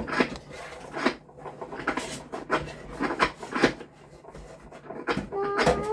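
Irregular knocks and clatters of things being handled, about a dozen sharp ones, quieter for a second about four seconds in. A voice comes in briefly near the end.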